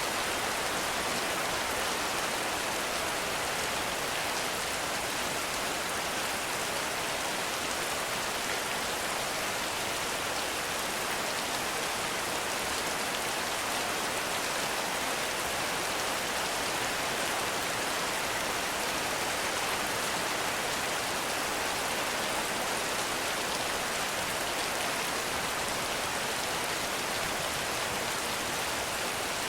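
Heavy rain falling steadily on forest foliage, a dense, even hiss of countless drops with no thunder.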